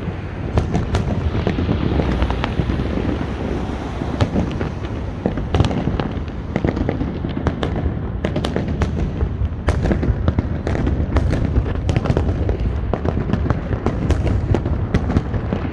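Large fireworks display: a continuous low rumble of aerial shell bursts with many sharp cracks, the cracks coming thicker from about eight seconds in.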